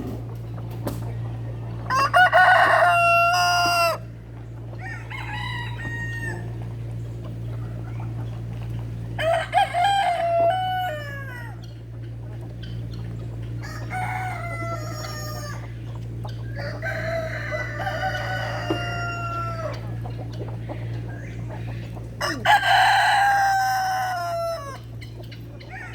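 Roosters crowing, about six crows, each one to two seconds long and dropping in pitch at the end, over a steady low hum.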